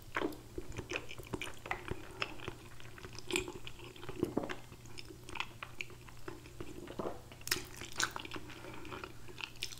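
Close-up mouth sounds of a person chewing a mouthful of creamy fettuccine Alfredo noodles: soft wet smacks and clicks throughout.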